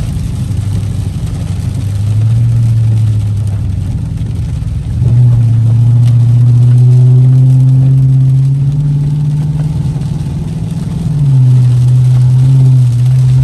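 Car engine revving hard in surges, heard from inside the cabin: it rises about two seconds in, jumps to high revs at about five seconds and holds there, eases off around ten seconds, then revs up again near the end.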